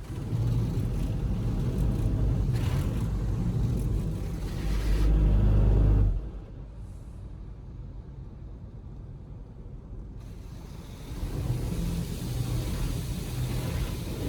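Automatic car wash machinery rumbling loudly, with a rushing noise over it. It drops away suddenly about six seconds in and builds up again near the end.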